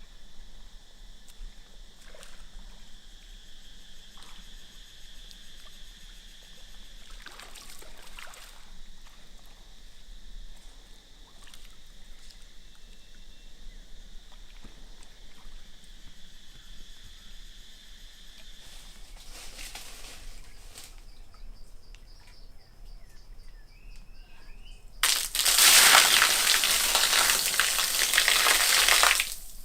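Outdoor insect chorus, a steady high-pitched buzz, with a few faint bird chirps. About 25 seconds in, a loud rushing noise starts suddenly, lasts about four seconds and cuts off abruptly.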